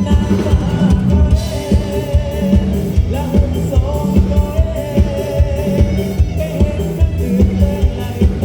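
Live luk thung band music with a drum kit keeping a steady beat and a melody line over it.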